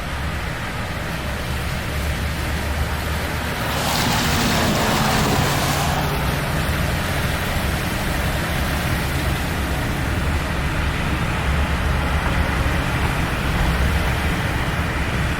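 A car driving at highway speed, heard from inside the cabin: a steady rumble of engine and tyre noise. About four seconds in, a loud hissing rush builds and lasts about two seconds before cutting off sharply.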